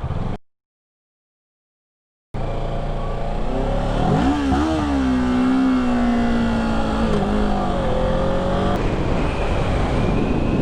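A vehicle engine over steady road and wind noise, broken by a stretch of dead silence of under two seconds near the start; about four seconds in the engine revs up sharply, then holds its pitch and slowly eases off.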